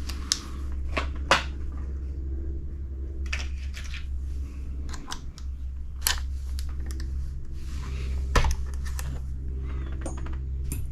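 Scattered small clicks and taps of tools and small parts being handled on a workbench, over a steady low hum.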